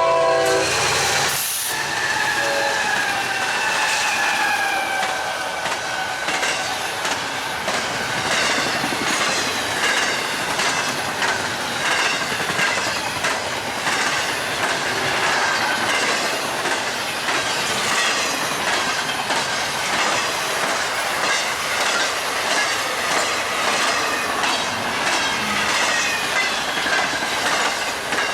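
BNSF freight train passing at speed: the locomotive's horn chord cuts off about a second and a half in, then a steady rush of wheels on the rail with rapid clicking over the joints and thin squealing tones from the wheels.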